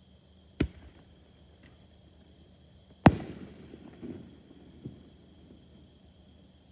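Fireworks shells bursting: a sharp bang about half a second in, then a much louder bang about three seconds in that trails off in crackling and rumbling, with a smaller pop near the end of that tail.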